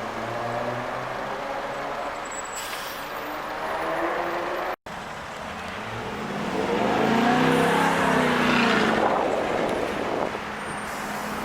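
Supercar engines driving by on the street. After a sudden cut near the middle, a car passes, its exhaust note growing louder and then falling away.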